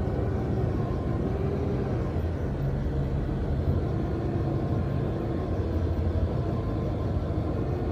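A heavy vehicle engine running steadily with a low rumble, its pitch lifting slightly a few seconds in.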